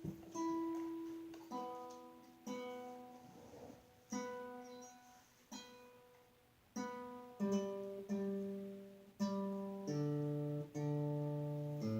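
Acoustic guitar played with slow, separate plucks, about a dozen, each left to ring and fade. The notes move lower in the second half.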